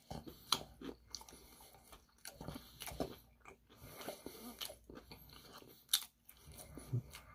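Close-up crunching and chewing of crispy Korean fried chicken: irregular crackly bites and chews.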